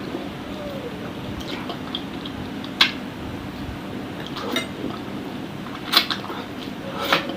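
Eating utensils clinking against a dish during a meal of satay in sauce: a few sharp clinks, the loudest about three seconds in and two more near the end, over soft eating noises.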